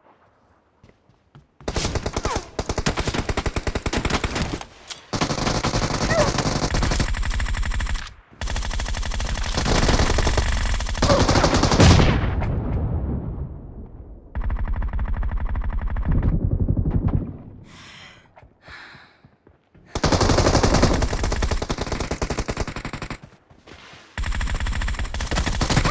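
Long strings of rapid automatic gunfire, about six bursts of two to four seconds each with short pauses between.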